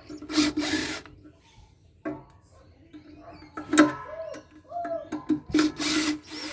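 Power drill run in two short bursts, about half a second in and again near the end, undoing fasteners during a solar inverter teardown. Sharp clicks and knocks of metal parts fall between the bursts.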